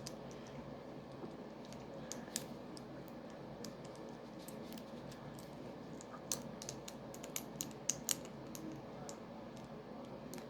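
Plastic Lego bricks being handled and pressed together: scattered sharp clicks, busiest about six to eight seconds in.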